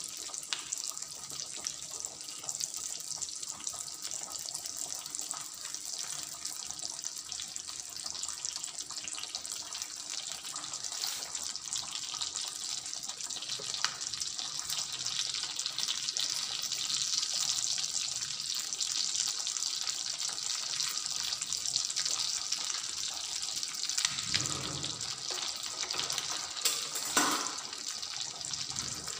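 Chicken breast sizzling in a frying pan of bubbling fat: a steady hiss that swells a little through the middle. A couple of brief knocks near the end.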